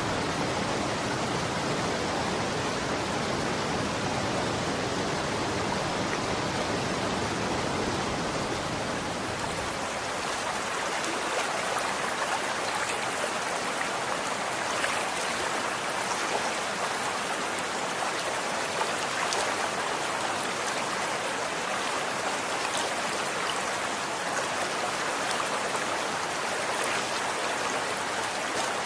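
Running water rushing and splashing steadily. From about ten seconds in the deep rumble thins out and small droplet-like ticks and splashes stand out more.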